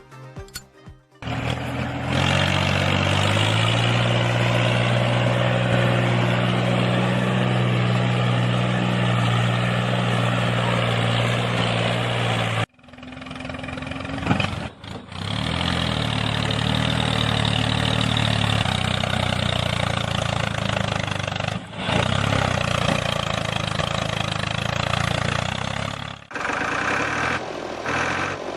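Engine running steadily with an even low drone. It starts about a second in, cuts off abruptly about halfway through, then runs on with a few short dropouts.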